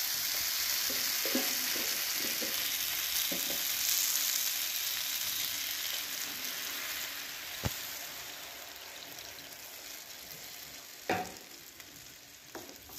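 Potatoes and spice masala sizzling in hot oil in a frying pan, with a wooden spatula stirring. As a glass of water is poured in, the hiss swells and then dies down steadily as the water quenches the hot oil. A sharp click and a knock come near the end.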